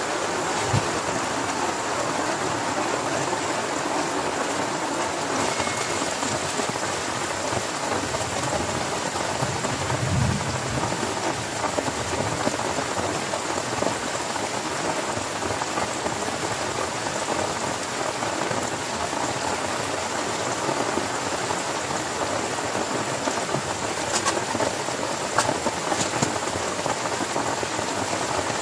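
Heavy rain falling steadily on a tent, a dense even hiss of drops. There is a brief low rumble about ten seconds in and a few sharper drip ticks near the end.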